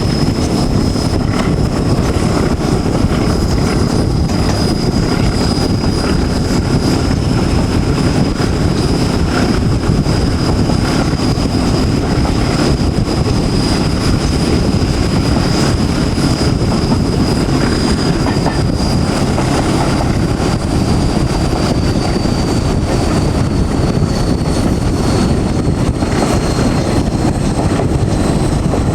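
Class 14 diesel-hydraulic locomotive D9551 hauling a train, heard from the carriages behind: a steady, loud engine and running noise with a high whine that slowly falls in pitch over the last third.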